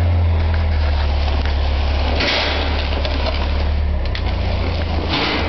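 An engine running steadily with a low, even drone, with two brief bursts of hiss, about two seconds in and near the end.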